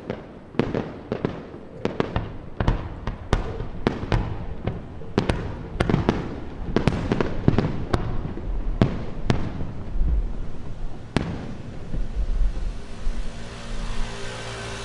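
Aerial fireworks bursting in rapid succession, several sharp bangs a second, each with a rolling tail. The bangs stop about eleven seconds in, leaving a steady low hum.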